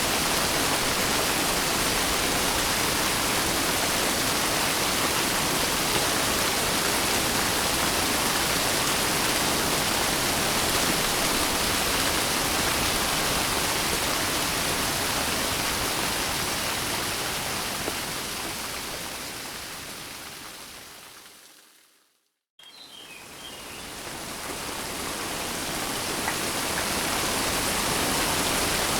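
Steady rain, an even hiss of falling water. About three quarters of the way through it fades out over several seconds to a moment of complete silence, then fades back in.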